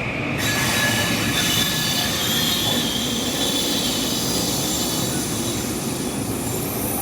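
A rail train running, a steady rumble with high-pitched squealing tones from the wheels on the rails.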